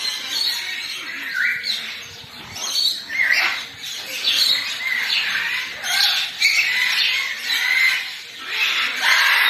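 Several birds squawking and chirping over one another in a continuous chatter.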